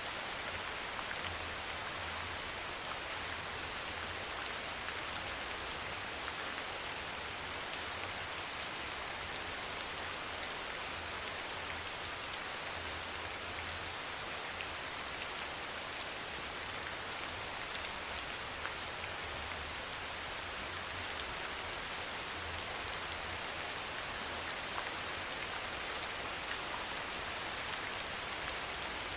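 Steady rain falling, an even dense hiss of drops that holds unchanged throughout, with a faint low drone underneath.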